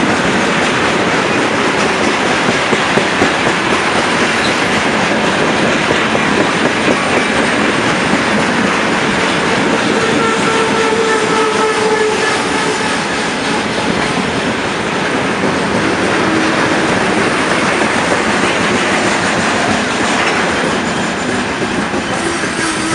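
Loaded tank cars of a freight train rolling past at close range, with wheels clattering over rail joints and a faint brief wheel squeal around the middle. The noise eases slightly near the end.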